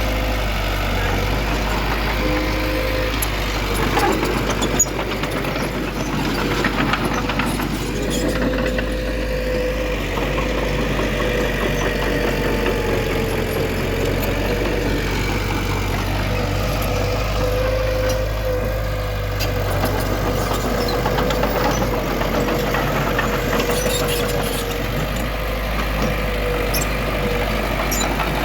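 Heavy diesel engine of earthmoving machinery running steadily, with a few sharp clanks about four to five seconds in.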